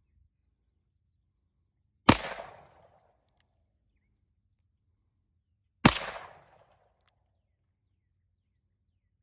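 Two revolver shots about four seconds apart, each a sharp crack followed by a short echoing tail. The shots are fired double action.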